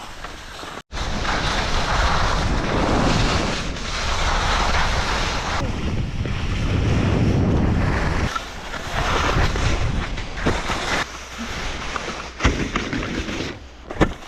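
Wind rushing over the microphone during a downhill ski run, mixed with the hiss of skis scraping over snow. The noise swells and eases unevenly, with a couple of sharp knocks near the end.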